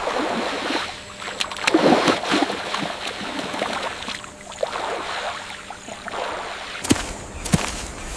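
Water sloshing and splashing in irregular surges, followed near the end by a few sharp cracks.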